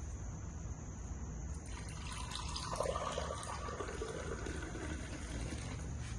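Water pouring into a container, starting about two seconds in and stopping near the end, over a steady high-pitched background hiss.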